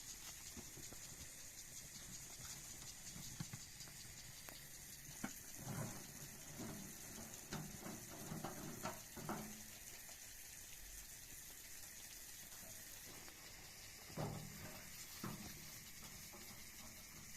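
Quiet background with scattered soft knocks and rustles, in two clusters: several a few seconds in and a couple more near the end.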